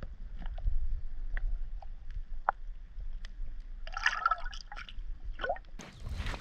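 Pond water dripping and splashing at close range, with scattered light handling clicks over a low rumble. A short splashy burst comes about four seconds in, and a louder broad rush near the end.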